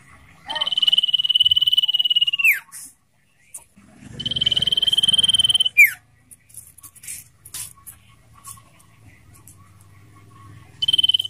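Common iora singing: two long, rapid trilled whistles held on one high pitch, each ending in a quick downward slur, then a short third trill near the end, with faint chirps between.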